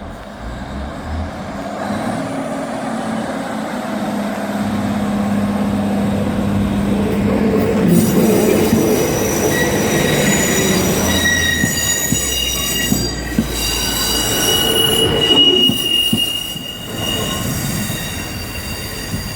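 Class 156 diesel multiple unit moving slowly through the station, its diesel engine humming and wheels rumbling; from about eight seconds in, high-pitched wheel squeal sets in and comes and goes.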